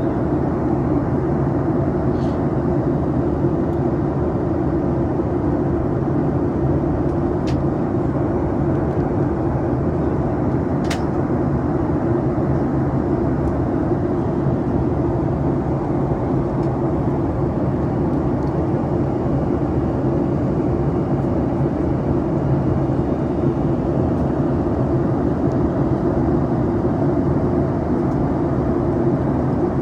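Steady cabin noise of a Boeing 737 MAX airliner in flight: an even rush of airflow with a constant low engine hum, and two faint clicks around seven and eleven seconds in.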